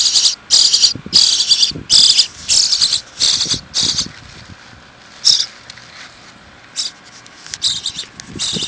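Nestling birds giving raspy, buzzy begging calls as they are fed worms by hand: short high bursts about twice a second, thinning to a few single calls in the middle and picking up again near the end.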